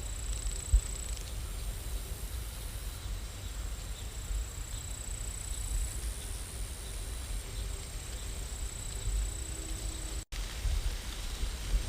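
Steady rain ambience: an even hiss with a low rumble underneath. The sound cuts out for an instant about ten seconds in.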